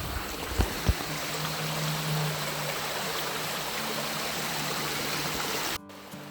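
Stream water rushing steadily over a shallow river crossing, with a couple of low thumps about a second in. It cuts off abruptly near the end.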